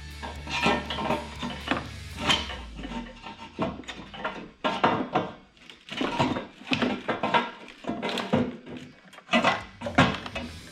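Stainless steel exhaust header clanking and knocking against metal as it is worked into place in the engine bay: a run of irregular metal clanks and clinks.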